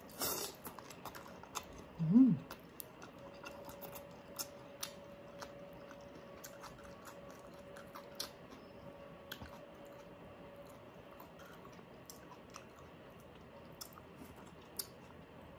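Close-up chewing of crispy pata, with scattered small crisp crunches and clicks from the crackling pork skin and a short hum about two seconds in.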